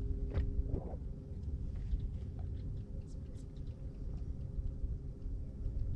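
Wind buffeting the microphone with an uneven low rumble, with scattered light ticks and taps. A low steady hum stops just under a second in.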